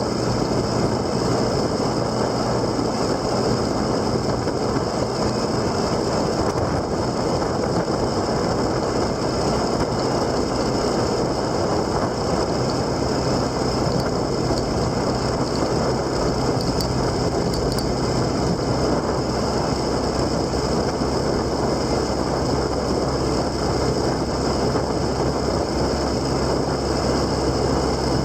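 Motorcycle engine running steadily under way, with heavy wind and road noise; the engine note shifts about halfway through.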